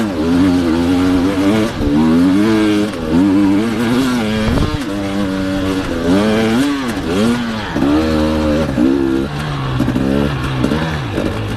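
Enduro motorcycle engine, ridden hard: the revs rise and fall over and over as the throttle is worked, then settle into a lower, steadier run near the end.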